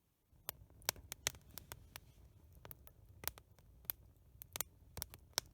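A burning Swedish log candle crackling: irregular sharp snaps, several a second, over a low steady rush of flame. The fire is still burning out its narrow central hole.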